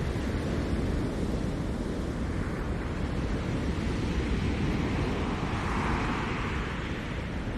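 Ocean surf: waves breaking and washing up the shore as a steady rushing with a deep rumble underneath, swelling a little brighter about five to seven seconds in.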